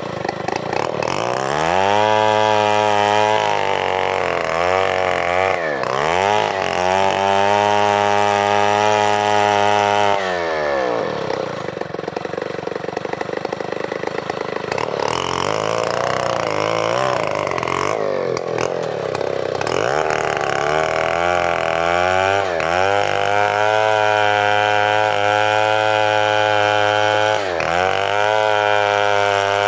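Two-stroke chainsaw running at high revs, the throttle easing off and picking back up several times, with a rougher, lower stretch a little before the middle.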